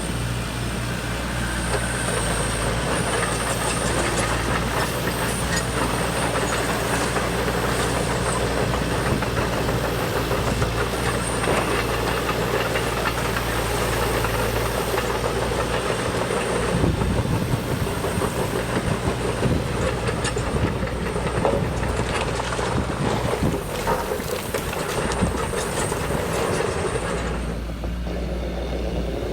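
Radio-controlled hydraulic construction model running: a steady mechanical rattle with a thin high whine over a low hum. The rattle and whine stop near the end, leaving the hum.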